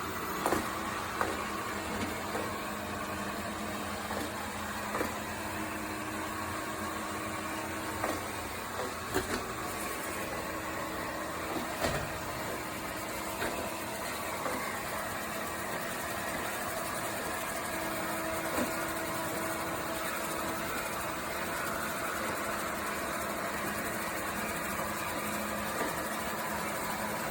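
Airzeen R7 robot vacuum running: a steady motor whir with a few scattered light knocks and clicks, most of them in the first half.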